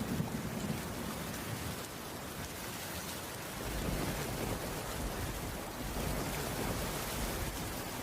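Heavy rain falling steadily, with a low rumble underneath from about four seconds in.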